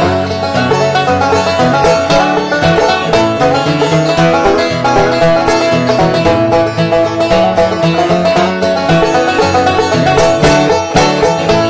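Banjo and guitar playing a bluegrass tune together, the banjo picking a busy run of notes over the guitar.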